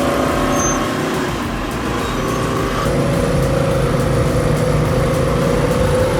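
Engine of a piece of heavy earthmoving equipment running steadily, its note shifting slightly about three seconds in.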